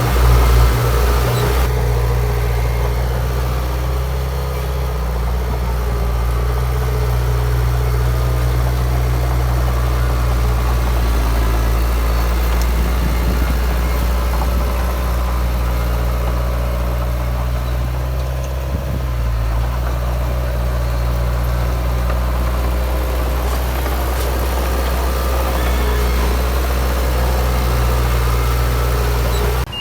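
Komatsu D53P bulldozer's diesel engine running steadily with a deep, low drone.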